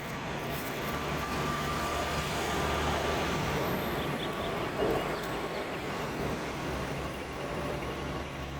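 Steady rumble of distant motor traffic, swelling a little in the middle.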